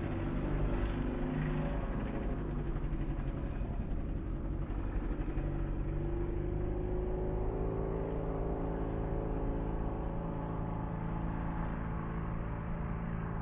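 Outboard racing boat engines running at speed, a continuous engine drone whose note rises slightly in pitch around the middle.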